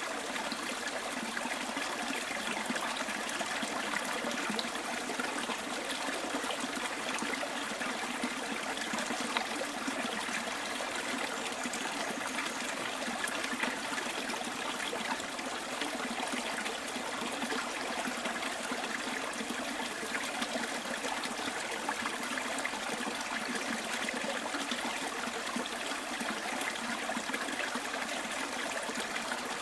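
Small stream flowing and trickling over stones, a steady, even rush of water without pauses.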